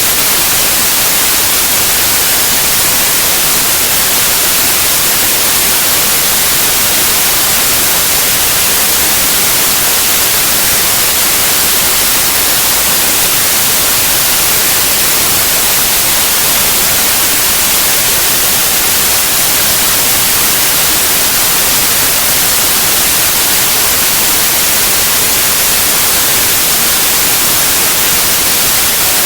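Steady, loud white noise: an even hiss across all pitches, strongest in the highest ones, with no change.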